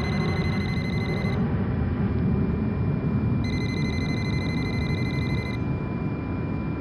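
A steady low rumble of jet cabin ambience, with a buzzing electronic alarm tone sounding in two bursts of about two seconds each. The first burst stops a little over a second in; the second comes about three and a half seconds in.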